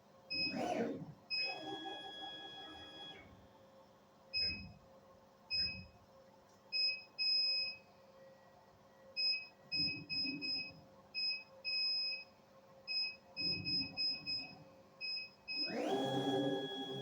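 Small birds calling in irregular runs of short, high, pure-toned notes, with several louder dull thumps in between and a longer gliding whistle near the end.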